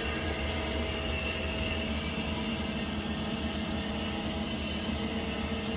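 Mazak QTN300II CNC lathe running: a steady machine hum with several constant tones layered over it, including a mid-pitched whine, holding level throughout.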